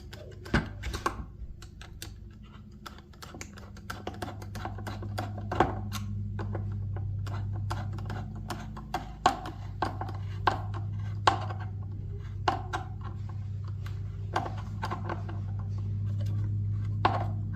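Hand tool clicking and knocking against a hose clamp as it is tightened onto the dishwasher pump's hose, in irregular sharp clicks about one every half second to second. A steady low hum runs underneath.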